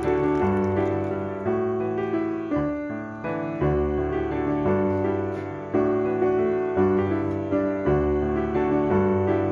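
Background piano music: gentle notes struck and left to ring in a slow, steady pattern.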